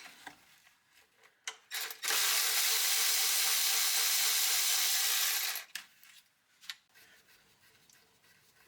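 A steady pressurised hiss of a spray or air jet, starting about two seconds in and lasting about three and a half seconds, with a few small tool clicks and knocks before and after it.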